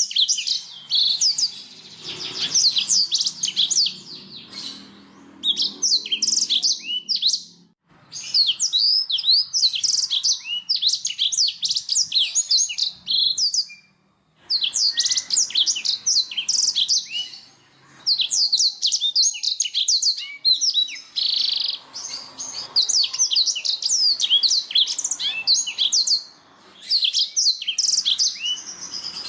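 Canary singing: long phrases of rapid, high chirps and trills, broken by a few short pauses.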